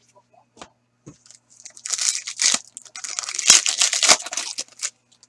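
A foil trading-card pack wrapper being torn open and crinkled, a dense crackling rustle lasting about three seconds after a couple of light clicks.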